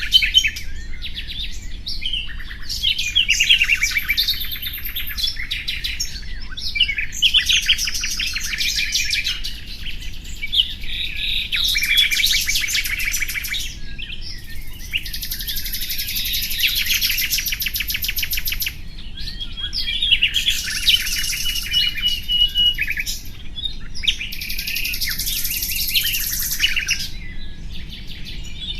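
Nightingale singing: a series of phrases a few seconds long with brief pauses between, built of rapid runs of repeated notes. Near the middle of the last third there is a held whistled note.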